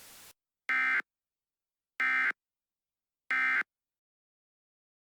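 Three short bursts of Emergency Alert System SAME digital data tones, about a second apart: the end-of-message code that closes an alert broadcast.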